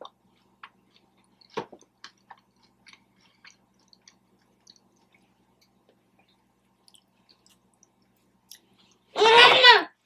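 Close-miked chewing of a barbecue pulled pork sandwich: scattered soft mouth clicks and smacks. Near the end a loud, short high-pitched call rises and falls once, louder than the chewing.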